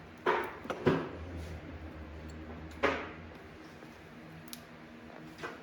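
Metal tools and transmission parts clanking as they are handled: two sharp clanks close together near the start and a third about three seconds in, each ringing briefly.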